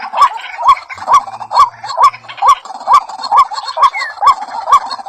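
A bird calling over and over: a short upward-hooked note, each with a sharp click, repeated evenly about twice a second.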